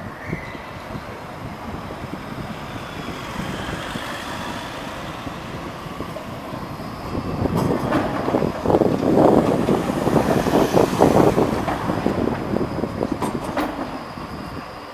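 A tram running past on street track. The rumble builds, with a dense run of wheel knocks over the rail about halfway through, then fades.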